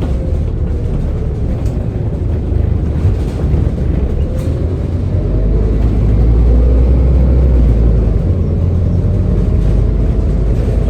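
Scania N230UD bus's five-cylinder diesel and ZF automatic gearbox running under way, a steady heavy low rumble with a faint wavering whine above it. The rumble swells louder about halfway through, then eases back.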